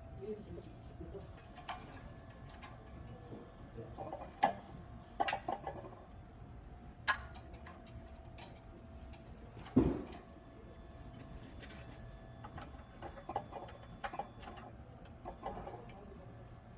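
Scattered clicks and knocks at irregular intervals, the loudest about ten seconds in, over a faint steady hum.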